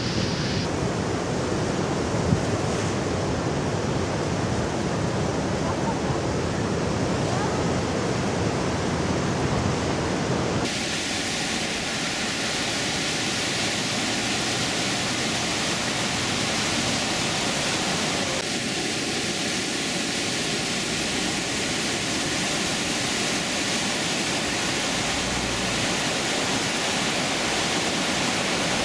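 Steady rushing noise of stormy weather, with no distinct events; about eleven seconds in it turns hissier and less rumbling.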